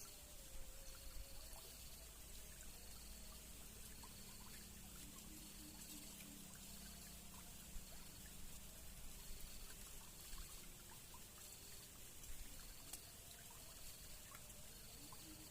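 Faint trickling and flowing river water, with a faint high call repeating evenly in the background.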